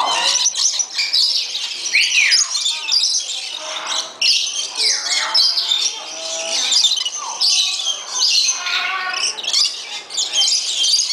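Many aviary birds calling at once: a dense chorus of high chirps with loud squawks, several of them sliding down in pitch.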